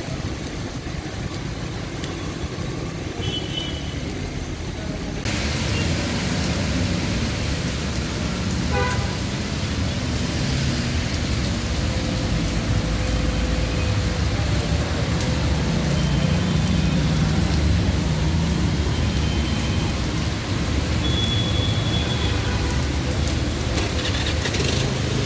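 Heavy rain hissing down on a wet city street, with traffic passing: engines rumbling and tyres swishing through standing water. The rain hiss turns suddenly louder about five seconds in, and a vehicle horn toots briefly about nine seconds in.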